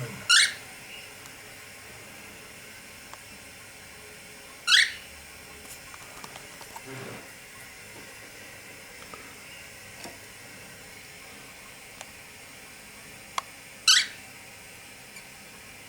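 Cockatiel chick giving three short rising chirps, spaced several seconds apart, over a faint steady hiss.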